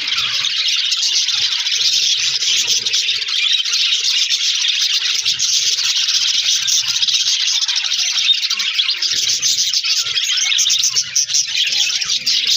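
A colony of budgerigars chattering and chirping without a break, many high warbles and chirps overlapping into one dense chorus.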